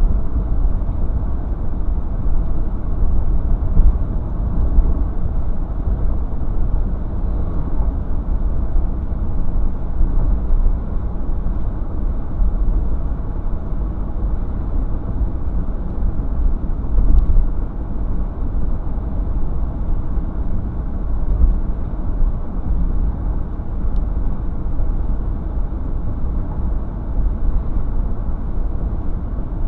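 A car driving at a steady pace: an even rumble of road and engine noise with no sharp events.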